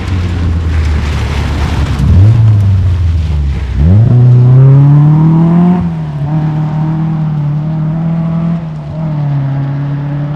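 Rally car engine under load, loud, with its pitch holding, then climbing steeply about four seconds in as it revs up, then holding steady again.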